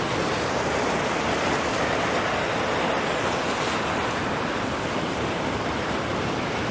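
Steady rushing of water pouring down an artificial waterfall on a mini golf course.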